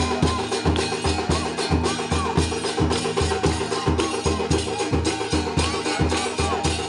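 Temple aarti drumming on dhol, beaten in a fast, steady beat of several strokes a second, with other percussion and ringing tones layered over it.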